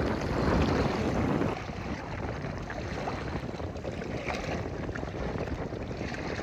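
Wind buffeting the microphone over the wash of sea waves, heavier for the first second and a half and then easing to a steadier rush.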